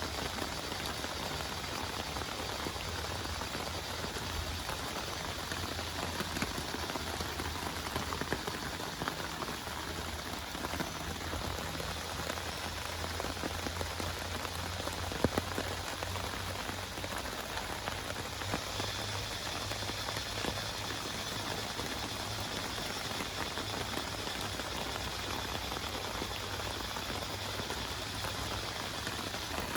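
Heavy rain falling steadily on a camping tarp, a dense even patter with scattered louder drop taps and one sharper tap about halfway through.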